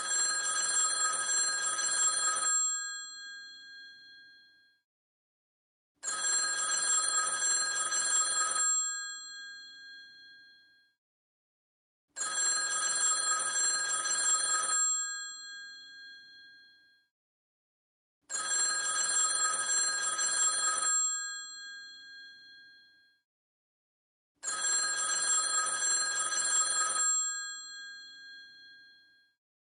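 An old telephone's bell ringing in a repeating cadence: five rings of about two and a half seconds each, starting about six seconds apart, with the bell ringing on and fading after each ring.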